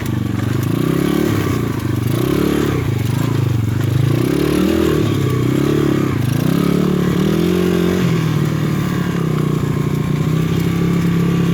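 PitPro 140cc pit bike's single-cylinder four-stroke engine running under way, its revs rising and falling again and again as the throttle is worked, then holding steadier for the last few seconds.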